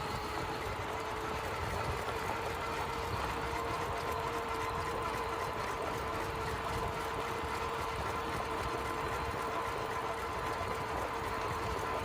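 Bicycle in motion: a steady mechanical whir of tyres and drivetrain with a faint steady hum running through it.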